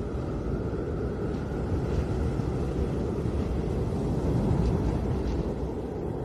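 Snowstorm wind blowing steadily: a dense low rumbling noise with a faint, slowly wavering whistle above it.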